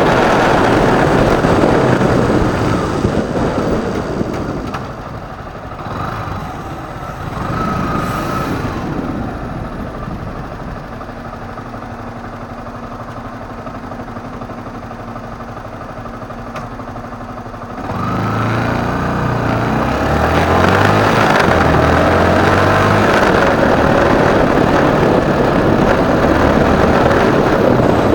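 Motorcycle riding in city traffic. Rushing noise at speed fades as the bike slows to a stop, with the engine ticking over quietly. About two-thirds of the way in, the engine revs up through a few gear changes as the bike pulls away, and loud rushing noise returns.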